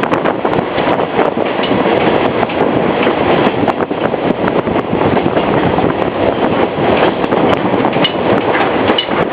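Passenger train running along the track: a steady rumble of wheels on rail, with many quick clicks and rattles throughout.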